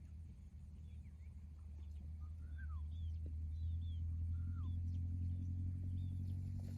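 Small birds chirping in short, downward-sliding calls, several times, over a steady low rumble that grows louder toward the end.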